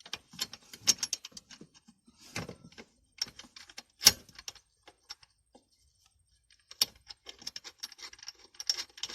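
Small metal parts clinking and rattling as a stainless steel hex-head bolt and nut are handled and tried in a light bracket. The sound comes in irregular bursts, with a sharp click about four seconds in and another near seven seconds.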